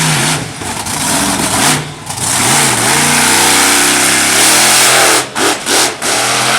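Monster truck engine revving hard, its pitch rising and falling as the throttle is worked, with several quick throttle lifts near the end.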